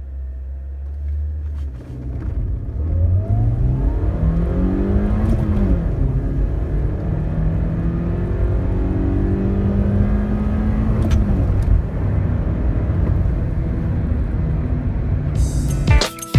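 Toyota Corolla Altis 1.8-litre four-cylinder petrol engine pulling hard through the gears of its manual gearbox in a full-throttle 0-100 km/h run. It starts with a steady note for about two seconds. The revs then climb, drop at an upshift about five seconds in, climb again for longer, drop at a second upshift around eleven seconds, and then rise slowly.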